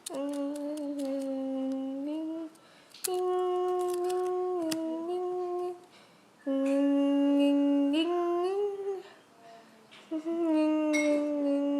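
A voice singing or humming four long held notes, each about two seconds long and ending in a short upward slide, with brief pauses between them.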